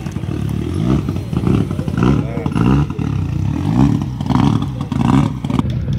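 Rally car engine being blipped over and over, each rev a short rise in pitch, about two a second.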